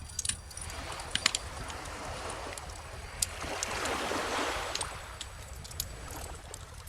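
Bonfire crackling with scattered sharp pops, the loudest about a second in, over calm ocean waves; one wave swells and washes in about four seconds in, then draws back.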